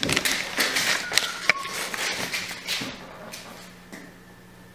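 Crackling, rustling and knocking of a large cardboard box being handled, busiest in the first two or three seconds and then dying down.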